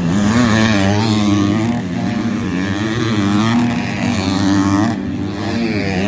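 250cc four-stroke motocross bikes on the track, their engines revving up and down in pitch again and again as the throttle is worked.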